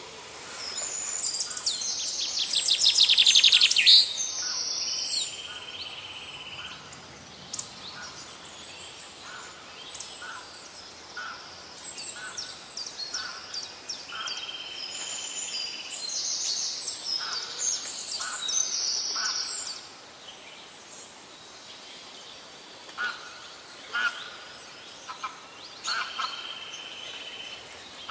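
Birds chirping and singing, many short high calls and trills over a faint steady hiss, with a loud rapid trill about three seconds in.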